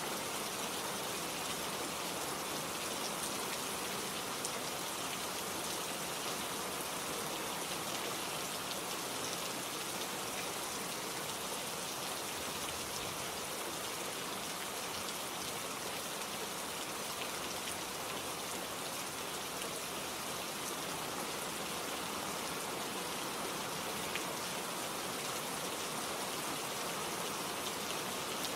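Steady rainfall, drops pattering on leaves and surfaces in an even, unbroken hiss.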